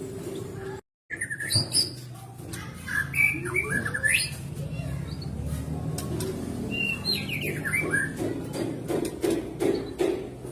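White-rumped shama singing a varied run of short whistles and chirps, with a brief cut to silence about a second in and a run of lower, rapidly repeated calls near the end.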